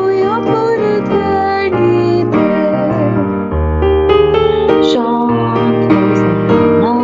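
A sung prayer: a female voice singing over piano accompaniment.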